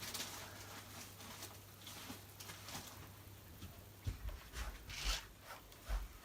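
A brush rasping through a dog's coat in a series of short, scratchy strokes. A few dull low thumps come in the second half.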